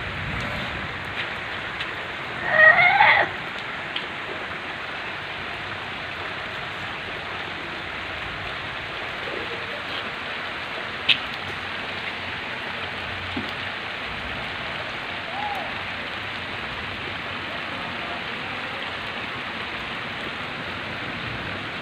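Heavy rain falling steadily on flooded ground, a constant hiss. A brief, loud voice-like call cuts through about three seconds in, and there is a single sharp click near the middle.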